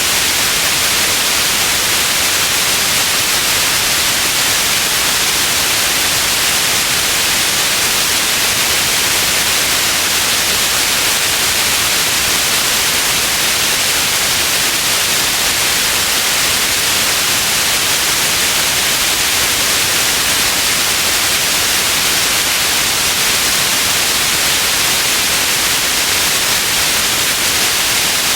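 Continuous white noise: a steady, unchanging hiss, strongest in the high range.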